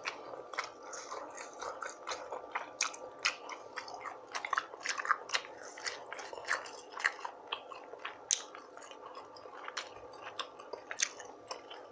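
Close-miked mouth sounds of eating rotisserie chicken: wet chewing, smacking and slurping, many short irregular smacks and clicks.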